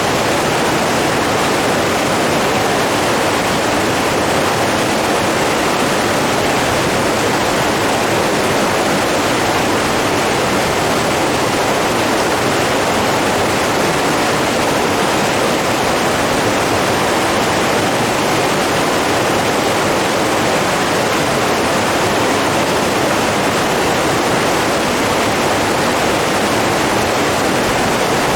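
Steady rushing of flowing water, an even unbroken wash.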